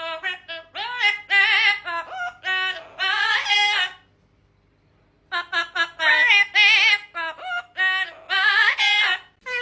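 A parrot vocalizing in a high, warbling, singing-like voice, in quick wavering phrases; it breaks off for about a second a little after four seconds in, then starts again.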